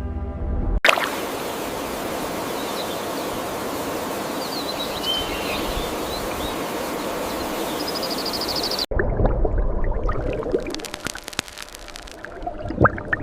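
Outdoor nature ambience: a steady rushing like flowing water, with a few faint bird chirps and a short high trill. About nine seconds in it cuts off abruptly to quieter ambience with scattered sharp clicks and a brief rising sound near the end.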